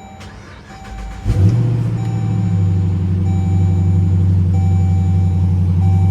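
2017 Jeep Grand Cherokee starting: a brief crank about a second in, the engine catching with a jump in level, then settling into a steady idle. Over it a warning chime tone repeats about once a second.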